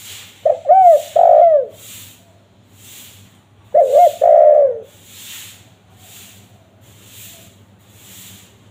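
Spotted dove (tekukur) cooing twice, about three seconds apart. Each phrase is a short note, a rising-and-falling coo, then a longer falling coo. A faint hiss pulses about one and a half times a second underneath.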